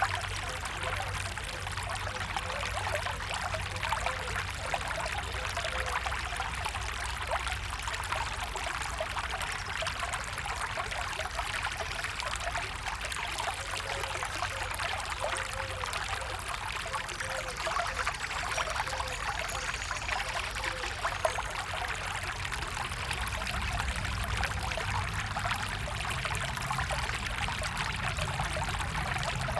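Water running steadily, a small stream trickling with a dense, even patter and small gurgles.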